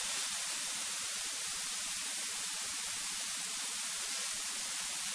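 Steady static hiss from the aircraft radio receiver, with no engine sound heard.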